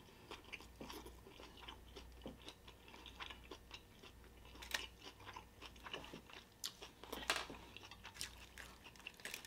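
A person chewing a mouthful of burrito with the mouth closed, close to the microphone: quiet, irregular wet clicks and soft crunches.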